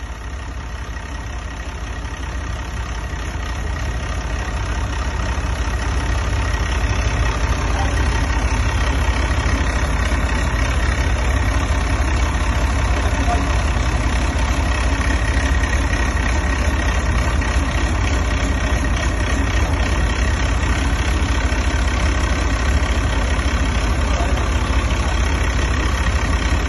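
International DT466 inline-six diesel engine running steadily after a full rebuild. It grows louder over the first several seconds, then holds even.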